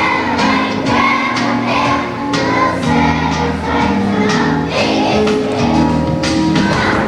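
A choir of first-grade children singing a song over instrumental accompaniment with a steady beat.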